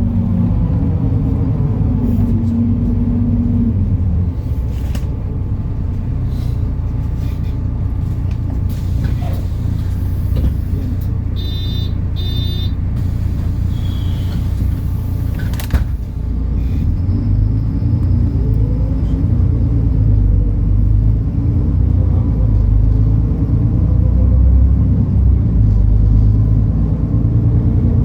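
MAN Lion's City city bus's diesel engine and drivetrain running with a steady low rumble. A little before the middle come two short electronic beeps and, a few seconds later, a sharp thump. After that the engine note builds and grows louder as the bus pulls away.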